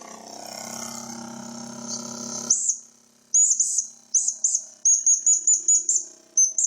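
A steady whistle with a high hiss for about two and a half seconds that cuts off suddenly, followed by a run of quick, high, rising chirps, several a second.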